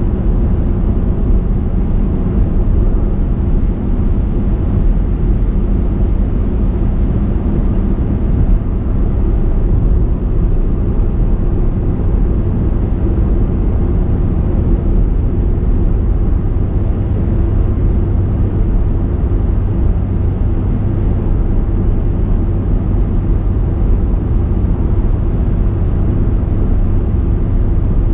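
Car driving along a road: steady engine and tyre road noise, a constant low rumble and hum.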